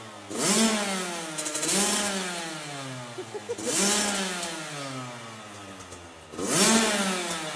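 Small motocross bike engine revved in four quick throttle blips. Each time it rises sharply in pitch, then winds slowly back down toward idle.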